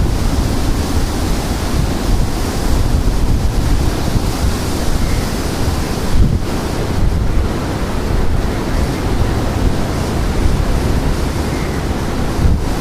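Strong gusting wind buffeting the microphone, a loud steady rumbling rush with short lulls about six seconds in and near the end.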